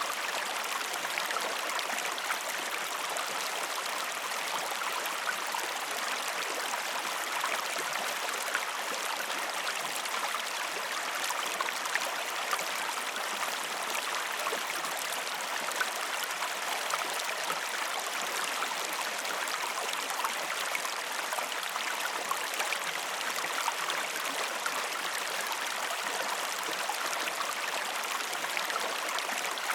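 A river running steadily: even rushing water with small splashes and gurgles, no music or voices over it.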